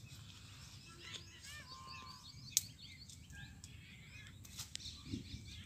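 Small birds chirping faintly over a low outdoor rumble, with one sharp click about two and a half seconds in.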